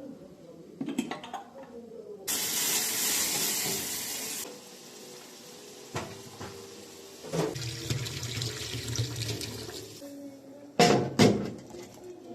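Water running from a tap for about two seconds, followed by handling clatter and two sharp knocks near the end.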